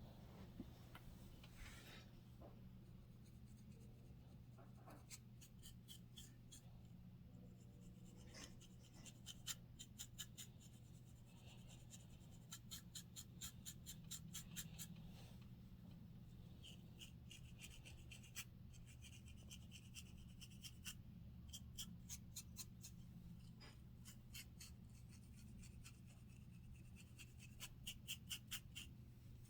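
Faint scratching of a scalp through hair to loosen dandruff, in quick runs of short, sharp strokes, over a steady low hum.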